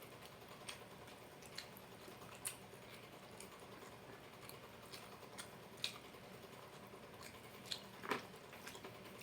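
Close-up mouth sounds of chewing crispy fried chicken and rice: scattered soft smacks and clicks about a second apart, with a louder one near the end.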